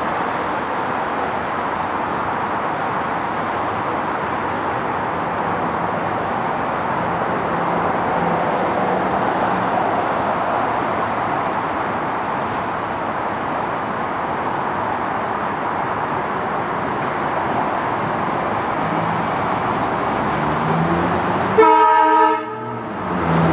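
Amtrak Northeast Regional train led by an HHP-8 electric locomotive rolling into the station, a steady rumble and hiss of wheels on rail. Near the end a brief, louder sound with several tones cuts in.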